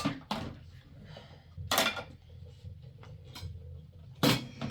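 A few sharp clattering knocks of household objects, with two louder ones about two and a half seconds apart, over a faint steady hum.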